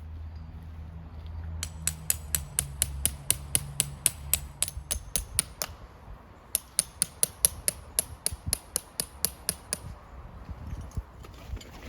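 Rapid, evenly spaced hammer blows, about three a second, in two runs with a short pause between.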